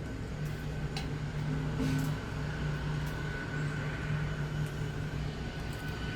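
Steady mechanical hum with a low drone and a faint high whine, and a few light clicks over it.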